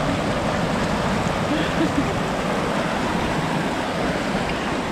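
Steady rushing of a waterfall pouring into a creek.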